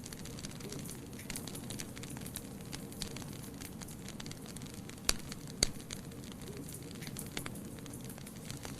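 Fire burning in a fireplace, crackling with scattered small pops over a soft steady rush, and two sharper snaps about five seconds in, half a second apart.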